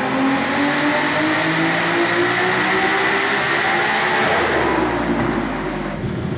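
Nissan Skyline R32 GT-R's RB26 straight-six, converted to a single BorgWarner turbo, pulling under load on a hub dyno. The engine note climbs steadily in pitch for about four seconds, then the revs drop away.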